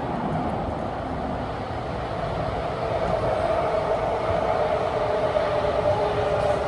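CT251 metro train heard from inside the carriage, running through a tunnel: a steady rumble and roar, with a humming tone that grows louder about three seconds in.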